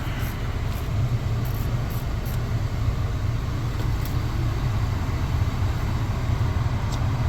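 2004 Honda Accord's engine idling with the heater blower running: a steady low rumble under an even rush of air, heard from inside the cabin, with a few faint clicks.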